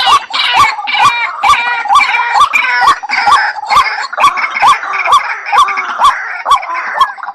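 White-breasted waterhen calling: a short rising note repeated steadily about twice a second, with a tangle of harsher chattering calls over it in the first half.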